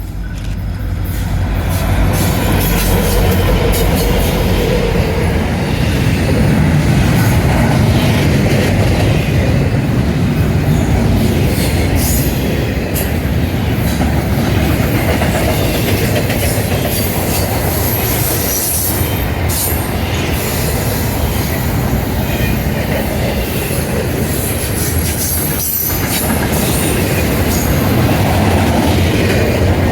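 Intermodal freight train rolling past at track side: a steady, loud rumble of wheels and cars, with clatter over the rail joints and some wheel squeal.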